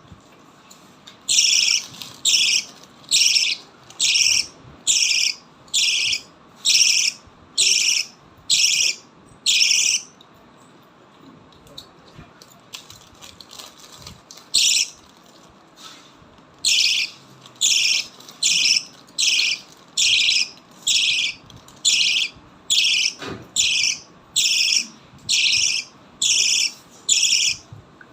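Lovebirds calling: a loud, sharp, high call repeated about one and a half times a second in long even runs, with a pause of several seconds in the middle.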